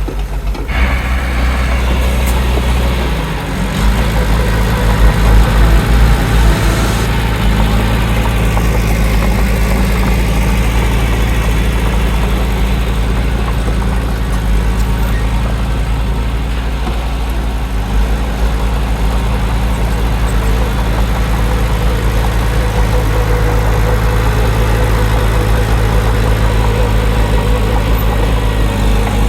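Heavy diesel engine of earthmoving machinery running steadily under load, louder for a few seconds early on, then holding an even pitch.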